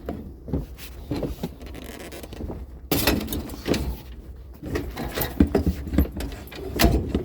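Irregular knocking, clattering and rattling as scavenged curbside items are handled and loaded, busiest from about halfway through, with a heavier knock near the end.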